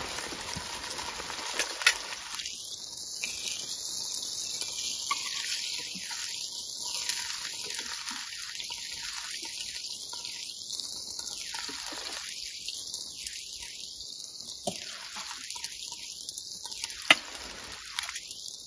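Steady rain hiss with dripping, and a few short, light knocks of camp cookware being handled.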